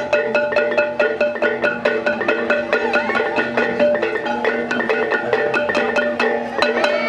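Javanese gamelan playing: struck metallophones sound a steady, fast run of ringing notes, several a second, over sustained lower tones.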